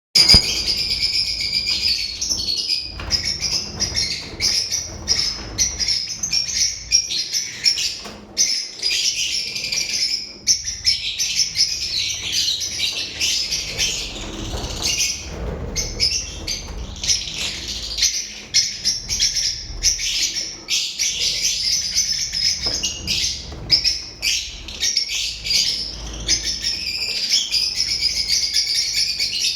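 A group of lovebirds chattering, a dense, unbroken stream of shrill, high chirps.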